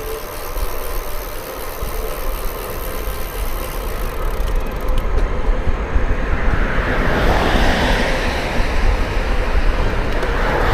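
Wind buffeting the microphone of a moving bicycle, a heavy low rumble throughout. About halfway through, a broad rushing noise swells and then eases off near the end.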